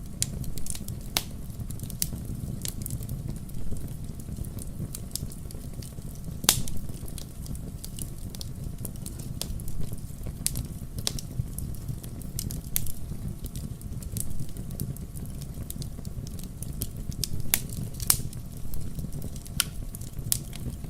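Burning firewood crackling, with irregular sharp pops over a steady low rumble. The loudest pops come about six and a half seconds in and again near eighteen seconds.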